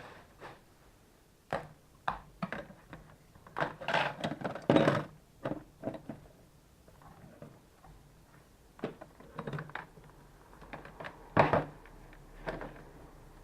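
Scattered clicks, knocks and rustles of hands handling a laptop power adapter and its cable, with a busy cluster about four to five seconds in and a sharp knock near the end.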